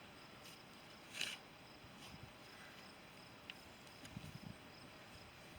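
Quiet outdoor background with faint steady insect chirping. About a second in there is a brief scrape of hands digging in loose garden soil to pull out a potato, and a few soft low taps near the end.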